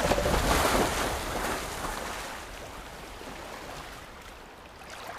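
Ocean surf washing onto a beach, loudest in the first second or two and then fading.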